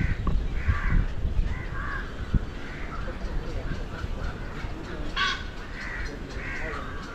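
Birds giving a string of short, harsh calls, about two a second, with one louder call a little after five seconds in, over a low rumble.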